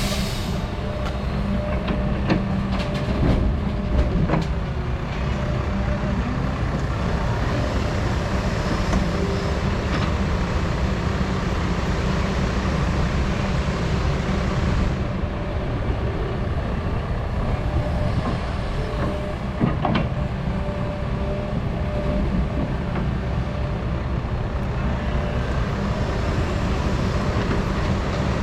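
Doosan 350 excavator's diesel engine running steadily under working load, with a few sharp knocks and clanks, mostly in the first few seconds and once near the middle.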